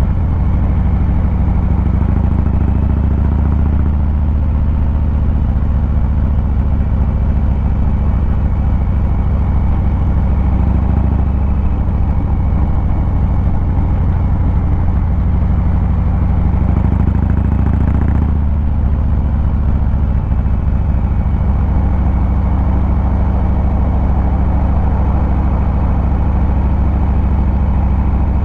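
Exhaust of a 2023 Harley-Davidson Fat Boy 114's Milwaukee-Eight 114 V-twin, heard from the rider's seat while riding: a deep, steady rumble whose pitch shifts a little a few times.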